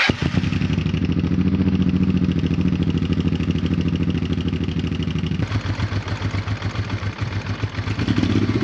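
Honda Transalp XL600V's 583 cc V-twin engine running with its refitted exhaust header pipes, a steady fast beat of firing pulses that cuts in suddenly. About halfway through, its note settles lower.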